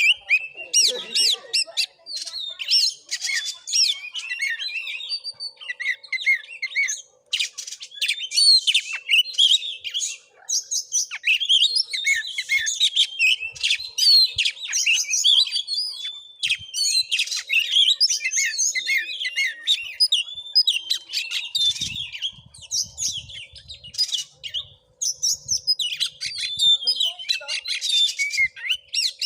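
Oriental magpie-robin (kacer) singing almost without pause: a rapid, varied string of high whistles, chirps and harsh squawk-like notes, broken only by short gaps. A few faint low knocks come about three-quarters of the way through.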